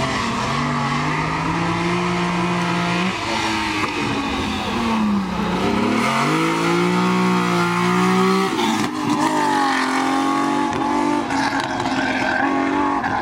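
Rally car engine running hard at high revs. The pitch drops sharply about three seconds in and again about eight and a half seconds in, then climbs again each time, as the driver lifts and changes gear.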